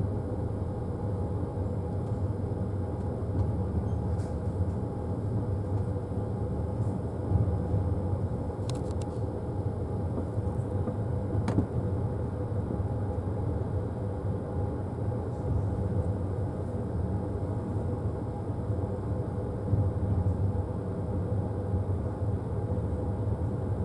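Steady low rumble of a passenger railway coach rolling along the track, heard from inside the compartment. A few faint clicks come about nine seconds in, and a single sharp tick about halfway through.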